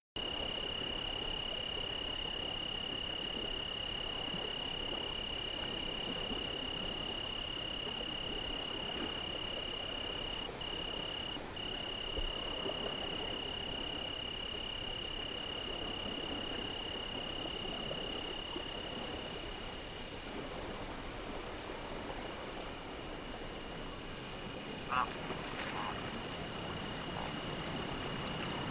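Night insects calling, crickets chirping: a high chirp repeating evenly about twice a second, over a continuous high trill that fades out about two-thirds of the way through.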